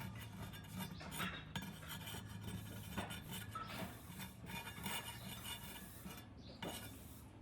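Light metallic clinks and scrapes, irregular and close together, from hand work on small hard parts, over a steady low hum.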